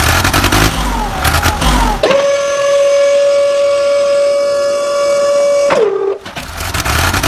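Toy vehicle engine sounds, broken by one long steady tone of nearly four seconds that drops in pitch as it cuts off, before the engine sound resumes near the end.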